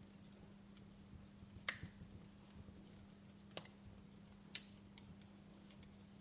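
Wood fire crackling: scattered small ticks and a few sharp pops, the loudest about a second and a half in and two more around the middle, over a steady low hum.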